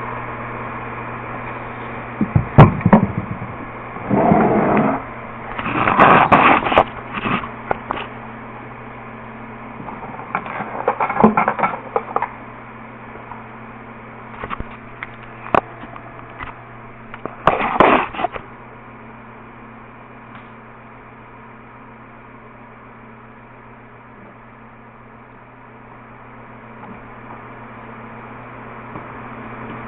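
Bursts of clattering, handling noise, several clusters in the first eighteen seconds or so, over a steady electrical hum that continues on its own afterwards.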